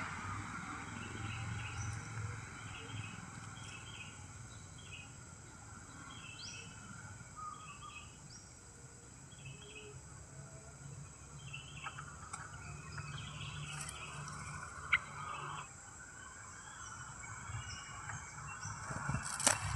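Small birds chirping in short, repeated calls about once a second over a steady outdoor background hiss and low hum, with one sharp click about fifteen seconds in.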